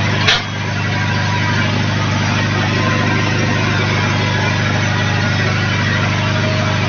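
Vehicle engine and exhaust idling steadily, with one short click about a third of a second in.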